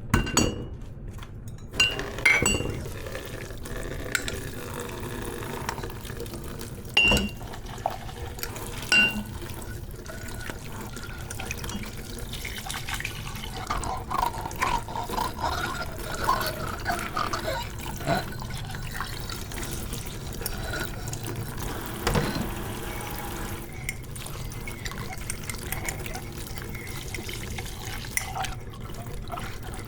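Kitchen tap running into a sink as dishes are washed, a steady rush of water. A few sharp clinks of crockery knocking together ring out over it, the loudest in the first ten seconds.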